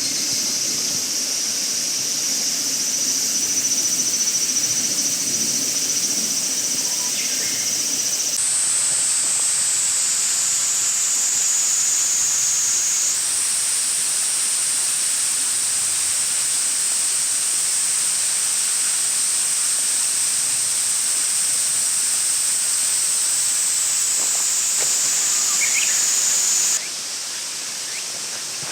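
Insects singing in a steady high continuous chorus over an even hiss of outdoor noise. The pitch of the chorus jumps abruptly about 8 and 13 seconds in, and it drops away near the end.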